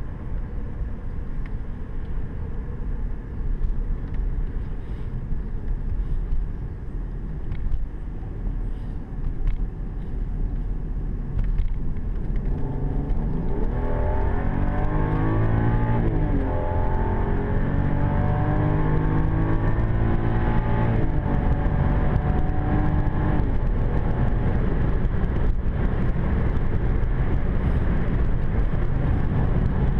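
BMW 550i F10's twin-turbo V8 on kickdown, heard from inside the cabin. It starts with steady tyre and road rumble at cruise, then a little under halfway through the revs climb hard, dropping at two upshifts and climbing again. After that it settles into a loud, steady drone of engine and road noise.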